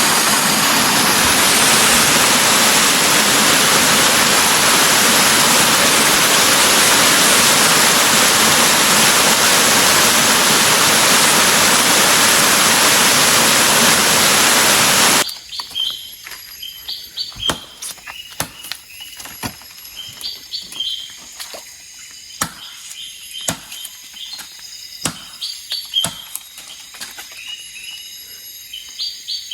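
A loud, steady rushing noise fills about the first fifteen seconds, then cuts off abruptly. After it comes a quieter outdoor background with short, high bird chirps and scattered sharp clicks and knocks.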